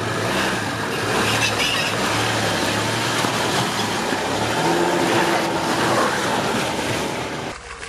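A car engine running under load, its pitch rising and falling, under a dense wash of noise; the sound cuts off abruptly near the end.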